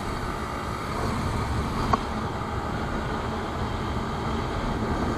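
Motorcycle on the move: a steady rush of engine and wind noise.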